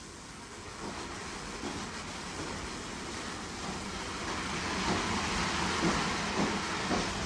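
A train approaching, steadily growing louder, its wheels clicking rhythmically over the rail joints.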